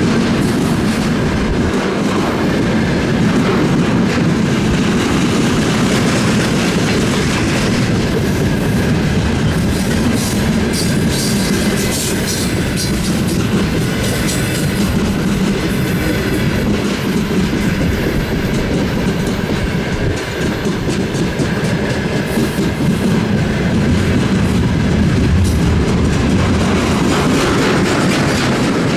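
Freight train rolling past at speed, its wheels clattering over the rail joints in a steady clickety-clack.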